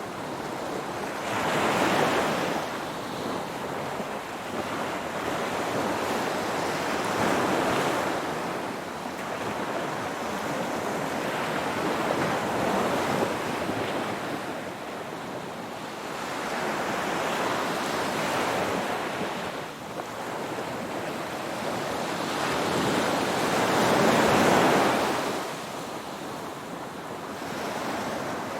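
Ocean waves washing in on the shore, the surf swelling and ebbing about five times, roughly every five seconds, with the loudest surge near the end.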